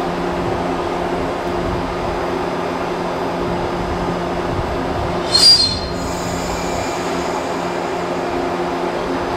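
Trains standing at a station platform, giving a steady hum of onboard equipment. A short, high squeal cuts in a little past halfway.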